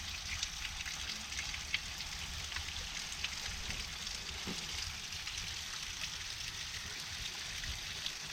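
Water falling and spraying like a shower at a mountain spring, a steady hiss with many small drip and splash ticks.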